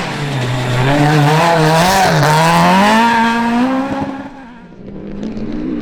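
Rally car engine at high revs as the car passes, its pitch climbing steadily with a brief dip about two seconds in, then fading away.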